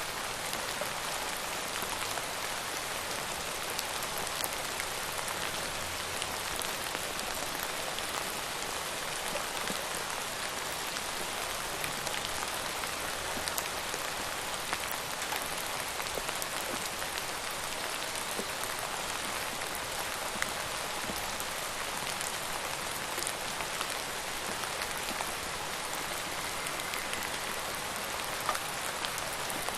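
Steady rain pattering on a surface, an even hiss dotted with individual drop ticks.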